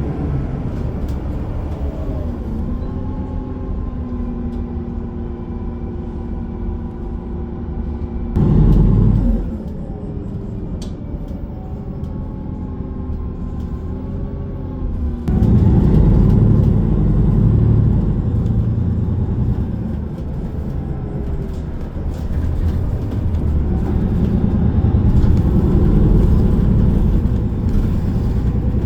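Transit bus under way, heard from inside the cabin: a steady low rumble of engine and road, with a whine that rises, then holds in pitch and falls away. The rumble grows louder in several stretches, the longest about halfway through.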